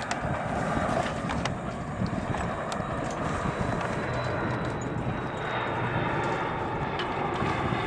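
Steady rushing background noise with scattered light clicks and knocks from a sailboat's halyard and rigging fittings being handled.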